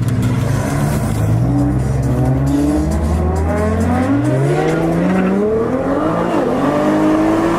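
A drag car's engine holds steady revs, then accelerates hard, its pitch climbing through the run with a brief dip about six seconds in at a gearshift.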